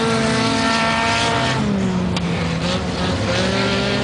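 Ice-racing car engines running hard, the engine note dropping about a second and a half in and then holding steady.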